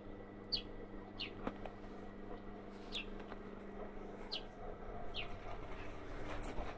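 A bird chirping repeatedly in the background, about six short high chirps that each drop slightly in pitch, spaced a second or so apart.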